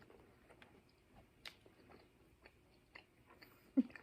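A person chewing a Reese's Outrageous candy bar, with faint, scattered wet mouth clicks. There is a brief, louder low sound just before the end.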